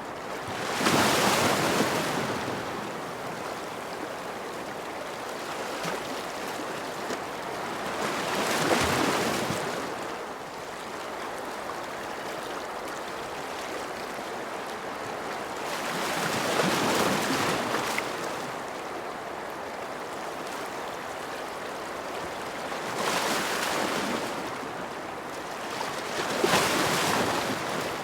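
Ocean waves breaking and washing in: five surges that each swell and fade over a couple of seconds, over a steady hiss of surf.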